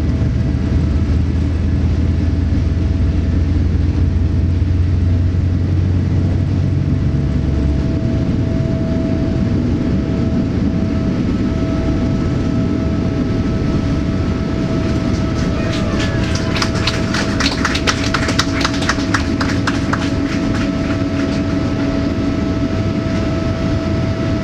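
Steady cabin noise inside a Boeing 787 Dreamliner: a low rumble with a constant hum. A deeper drone drops out about a third of the way in, and a run of rapid rattling clicks comes about two-thirds of the way in.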